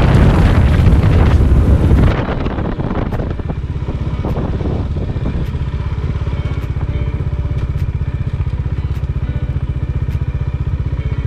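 Bajaj Dominar 400 single-cylinder motorcycle engine heard through heavy wind rush while riding. About two seconds in, the wind noise drops away and the engine runs on steadily with an even low pulse, as if idling.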